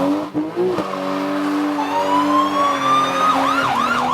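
Car sound effects in a song's instrumental break: a steady engine-like drone, then a siren tone rising from about halfway that turns into a fast up-and-down police-siren warble near the end.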